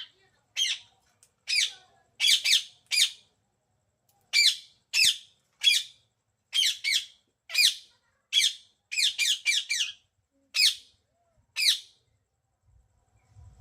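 A parrot squawking: a long string of short high calls, some in quick pairs and triplets, which stops almost two seconds before the end.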